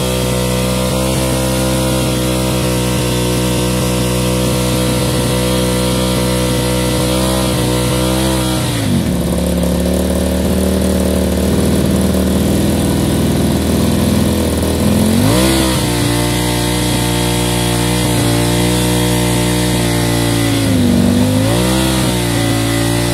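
An engine running steadily. About nine seconds in its speed drops and stays low for several seconds, then rises back around fifteen seconds in, with a brief dip and recovery near the end.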